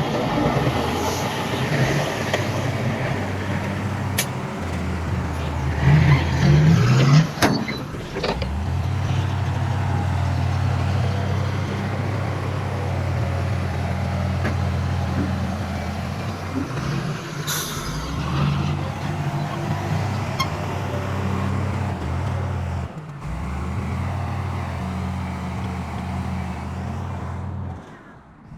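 Heavy diesel engine of earthmoving machinery running with a steady low drone, growing louder for a moment about six to seven seconds in. A few sharp metallic knocks stand out over it, one each about four, seven and seventeen seconds in.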